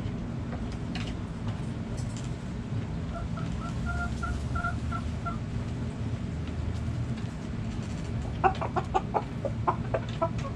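Backyard hens clucking: a run of soft, evenly pitched notes about three seconds in, then a burst of rapid, louder clucks near the end, over a steady low rumble.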